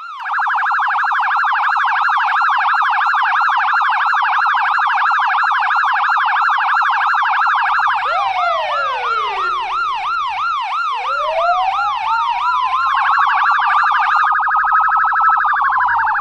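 US police car electronic siren switching between tones: a very fast warble, then a slower repeating yelp about halfway through, with a long wail that climbs over several seconds and falls near the end. The fast warble comes back over the wail in the last few seconds, with a faint low rumble under the siren from about halfway.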